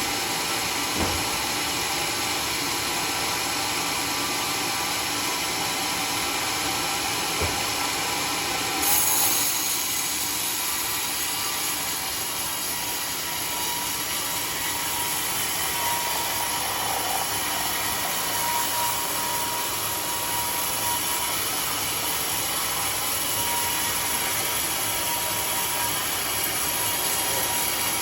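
Sawmill saw running steadily while sawing teak wood, with two short knocks in the first eight seconds and a brighter, hissier sound from about nine seconds in.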